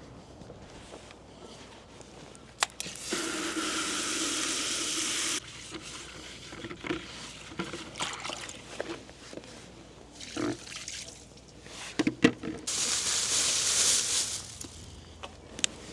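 Water running, likely from a tap, turned on for about two seconds, then again near the end, each spell starting and stopping abruptly, with small clicks and knocks in between.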